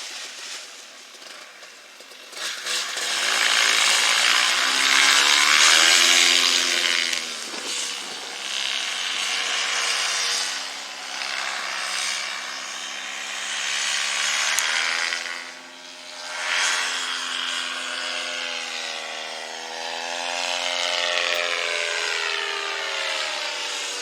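A small engine droning, its pitch slowly wavering up and down, under a strong rush of air noise.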